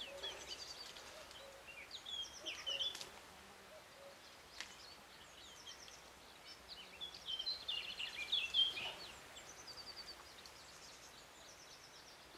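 Songbirds singing: repeated high trills and chirps, busiest and loudest about eight seconds in. A couple of sharp clicks fall near three and four and a half seconds.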